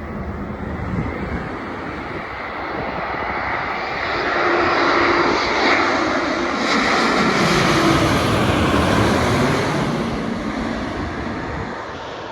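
Boeing 787 Dreamliner jet airliner on final approach passing by: its engine noise swells to a peak around the middle and then fades, the pitch of its whine falling as it goes past.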